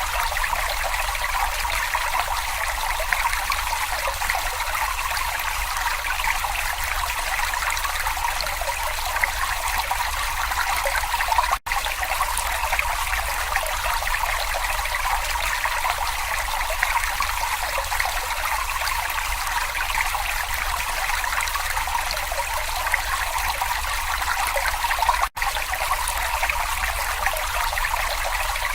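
Babbling brook: water trickling and splashing over stones in a steady, even flow. The sound cuts out for a split second twice, a little before the middle and near the end.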